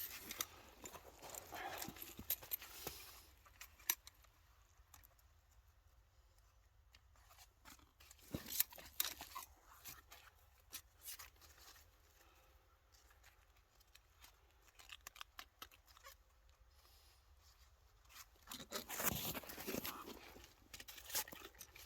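Faint, scattered clicks, rattles and scrapes of metal trapping gear being handled, with a louder cluster about a third of the way in and busier handling near the end.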